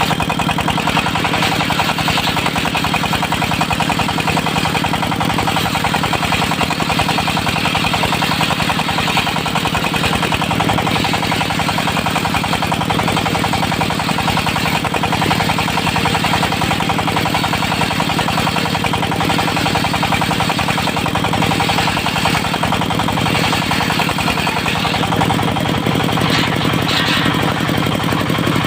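Diesel engine of a mobile circular sawmill running steadily, with a fast, even knocking beat.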